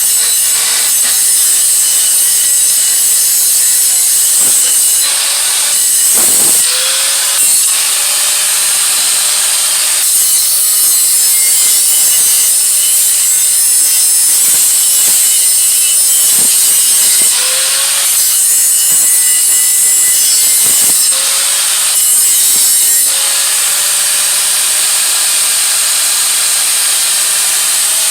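Electric grinder working on a steel exhaust head pipe, taking metal off so the joint will squeeze together tighter. It makes a steady scraping hiss, and its motor whine dips and climbs back up several times as the tool is pressed in and eased off.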